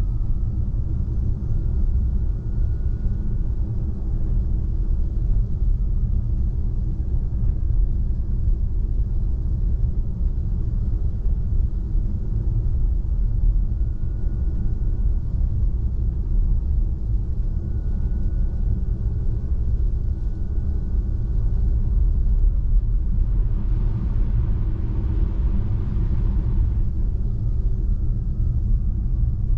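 Steady low rumble of tyre and road noise from a Tesla Model 3, an electric car, driving on a snow-covered road. Near the end a hiss rises for about three seconds, then fades.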